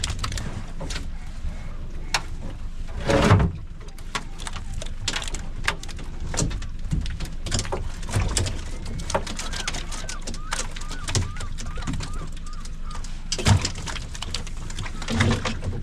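Clicks, knocks and clatter of hands working on a hooked catch, with a louder thump about three seconds in and another near the end. In the middle comes a run of short, repeated chirping calls.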